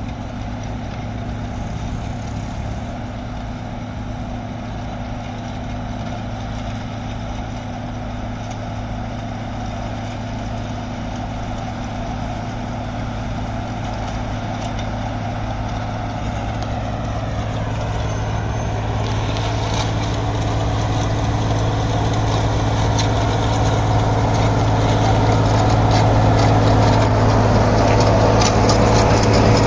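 Heavy diesel engine of an earthmoving machine running steadily and growing gradually louder. About seventeen seconds in, a whine that slides in pitch and a rattling clatter join it.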